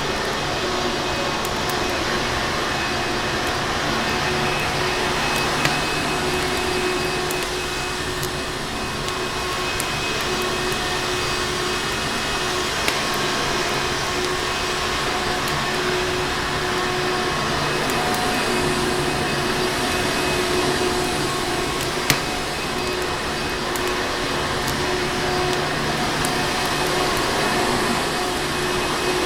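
Vacuum cleaner running steadily: an even rushing noise with a constant motor hum. A wood fire's crackle is mixed in, with a few sharp pops.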